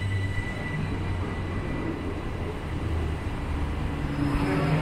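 Southern Class 377 electric multiple unit moving along the platform, a steady low rumble of wheels and motors, with a faint high tone that fades out in the first second.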